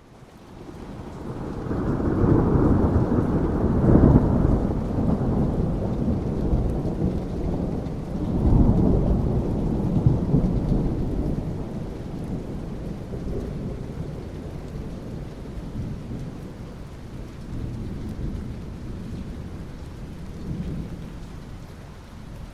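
Thunder rolling over steady rain: the rumble builds up from nothing, peaks twice in the first half, then fades to a lower rolling grumble as the rain goes on.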